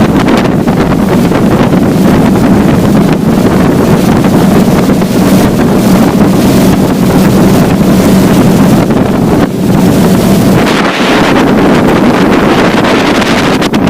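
Motorboat engine running steadily, with heavy wind buffeting the microphone; the engine's hum weakens about eleven seconds in.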